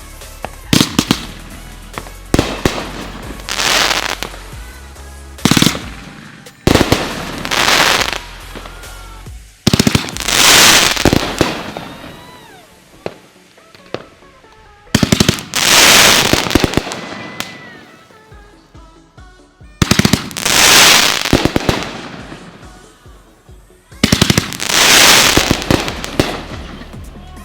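Consumer fireworks (mortars and cakes) going off: about six volleys, each a quick cluster of sharp launch reports followed by a burst of crackle lasting a second or so, over background music.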